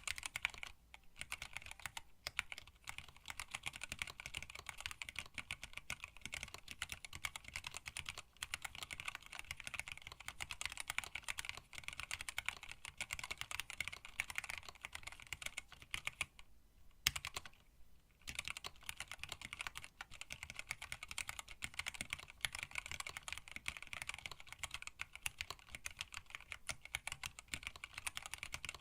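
Fast, steady typing on a hand-wired split mechanical keyboard with Tealio linear switches, blank PBT keycaps and an acrylic case and plate. Keystrokes run densely, with a short pause a little past halfway broken by one louder keystroke.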